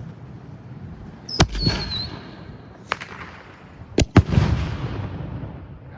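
Consumer fireworks going off in the open: about four sharp bangs with echoing tails, the loudest a quick pair about four seconds in, and a brief high whistle just after the first.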